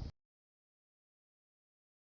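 Silence: the soundtrack cuts off abruptly just after the start and stays completely silent.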